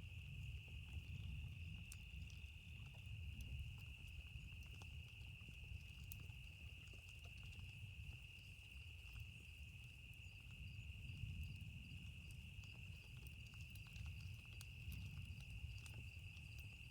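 Faint ambient mix: a steady high insect trill, like crickets, over a low rumble that swells and fades, with scattered small crackles from a campfire.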